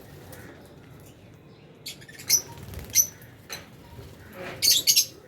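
Lovebirds chirping in short, sharp, high calls: single chirps about two and three seconds in, then a quick burst of several chirps near the end.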